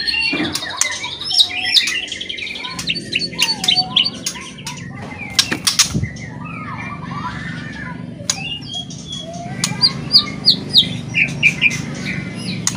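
White-rumped shama singing a loud, varied song of short gliding whistles mixed with sharp clicks and fast rattling 'kretekan' notes.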